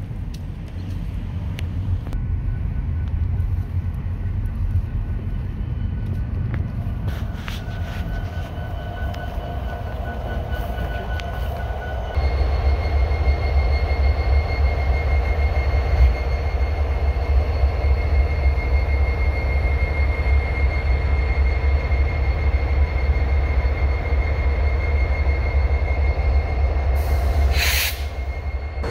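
Union Pacific train running past: a steady low diesel-and-rail rumble with a steady whine on top, which grows louder about twelve seconds in. A brief hiss comes near the end.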